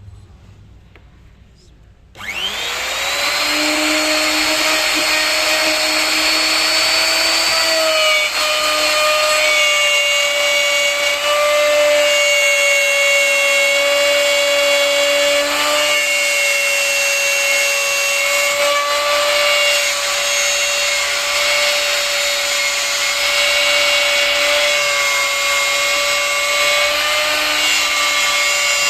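Electric power tool switched on about two seconds in, its motor whine rising as it spins up and then running steadily at speed, with small shifts in pitch as it works.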